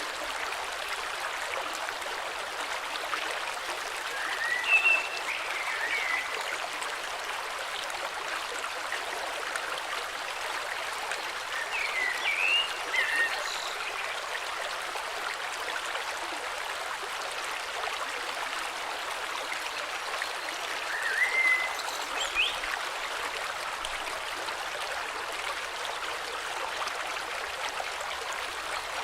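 A river flowing steadily, with a bird singing three short chirping phrases several seconds apart.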